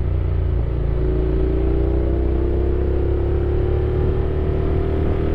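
Honda X-ADV 750's parallel-twin engine under way, its note dipping briefly about half a second in and then rising slowly and steadily as the bike picks up speed, over a low rumble of wind and road noise.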